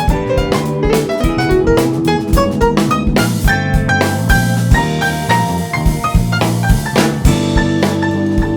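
Live jazz-fusion band playing: a drum kit keeps a steady beat under bass and pitched melodic instruments.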